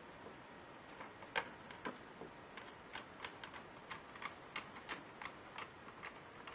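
Irregular light clicks and taps on a laptop, two to three a second, starting about a second in, much like keys being pressed.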